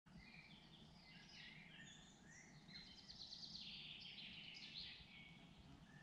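Faint birdsong from several songbirds: short chirps and warbled phrases overlapping, with a quick run of rapidly repeated notes near the middle.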